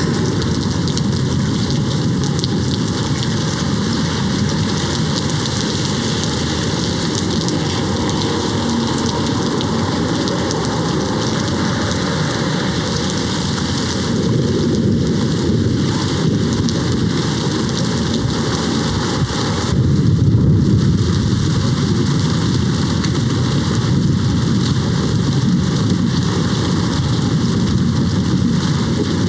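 Steady heavy rain hitting a window, with thunder rumbling in the distance; the rumble swells loudest about two-thirds of the way through.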